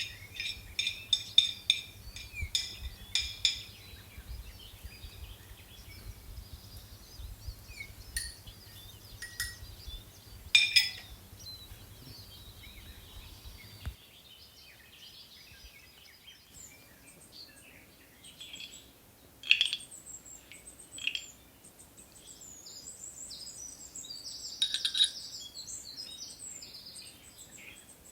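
Small birds chirping and singing, with quick light clinks, like glass or kitchenware, in the first few seconds. A low steady hum under the first half stops suddenly about halfway through.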